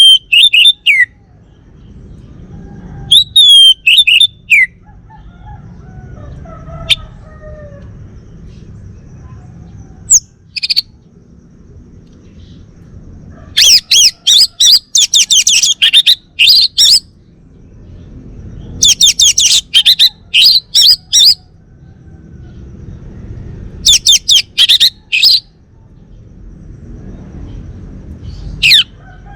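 Male orange-headed thrush singing: loud bursts of rapid, high sweeping notes, in phrases of one to three seconds, with pauses of a few seconds between them.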